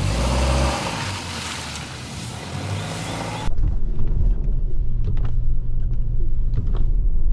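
A car, first with a broad hiss over its low engine note; about three and a half seconds in the hiss stops suddenly and the car is heard from inside the cabin while driving, a steady low rumble with a few light knocks.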